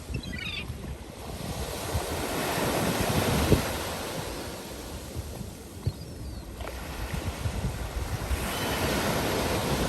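Sea waves breaking on the shore, the surf swelling and falling back in slow surges, with wind rumbling on the microphone. A few faint seagull cries come near the start and about six seconds in.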